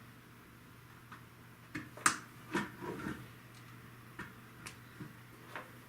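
Plastic Lego pieces being handled and pressed together: a scattered series of short, sharp clicks and clacks, the loudest about two seconds in.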